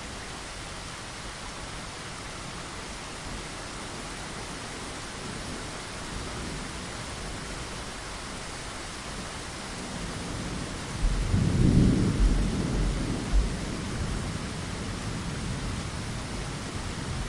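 Steady rain falling against a window, with a low roll of thunder that swells about ten seconds in, peaks over a couple of seconds and fades away.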